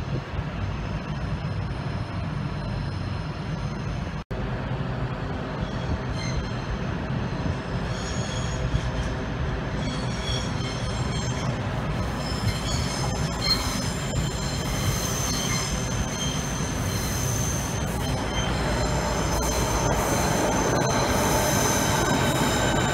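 Train noise: a steady low rumble with high squealing wheel tones, growing louder over the last few seconds as a Southeastern Class 395 Javelin electric train runs alongside the platform.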